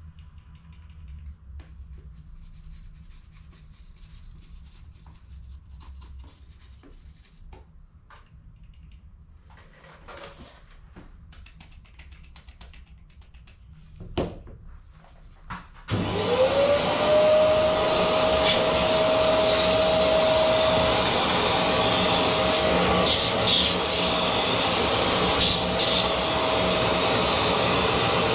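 A vacuum cleaner motor switched on about halfway through, whining up to speed and then running steadily, as used to clear toner from cartridges. Before it starts there are only faint clicks and small handling sounds of cartridge parts.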